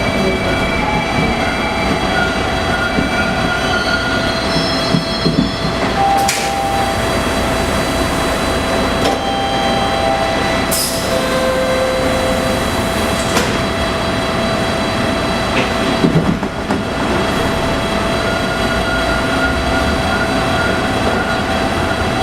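Interior noise of a Bombardier T1 subway car: a steady rumble with a constant hum, brief squealing tones and a few short sharp hissing bursts.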